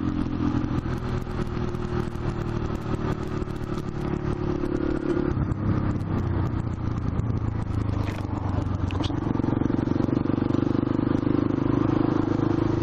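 Yamaha XTZ 125's single-cylinder four-stroke engine running steadily at low speed. Its note drops about five seconds in and rises again a few seconds later.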